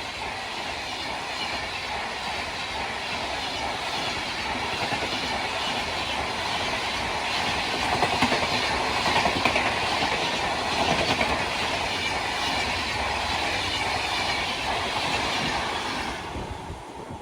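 Indian Railways train running past at speed, its wheels clattering over the rails under a steady rush of noise. The noise drops away sharply near the end as the train clears.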